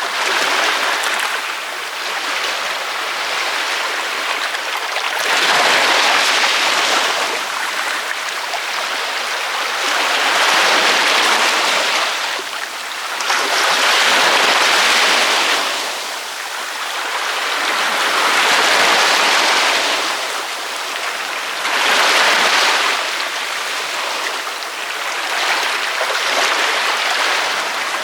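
Ocean waves breaking on a beach one after another, a loud rush of surf that swells as each wave breaks, about every four seconds, and eases off in between.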